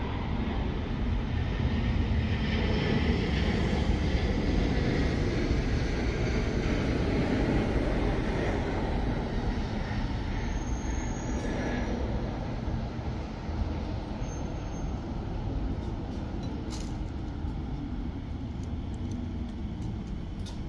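Elizabeth line Class 345 electric train running, a steady rumble that swells over the first few seconds and then slowly eases.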